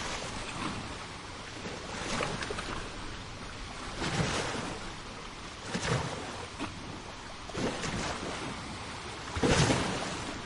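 Sea waves washing onto a shore: a steady hiss of surf that swells roughly every two seconds, the biggest surge near the end.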